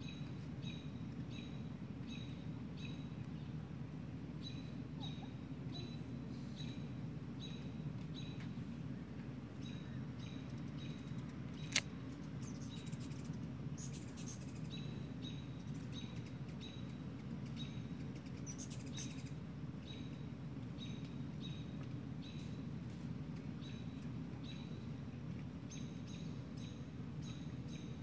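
A bird repeating a short, high chirp about twice a second, in runs broken by short pauses, over a steady low background rumble. A single sharp click about twelve seconds in.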